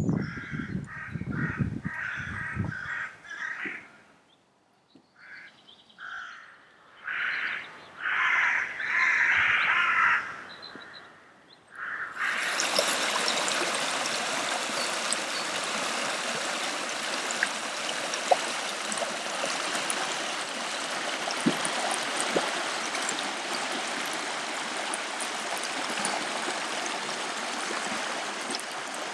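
Birds calling in short repeated bursts for the first ten seconds or so. About twelve seconds in, the sound switches abruptly to a river running and bubbling over stones, which stays steady.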